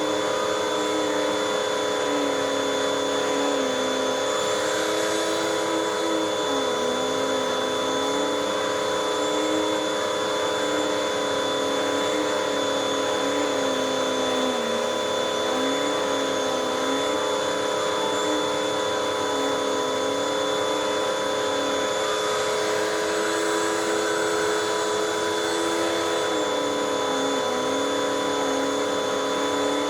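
Hoover WindTunnel 2 upright vacuum cleaner running steadily with its pet tool attached. A lower whine in its note dips and recovers every few seconds.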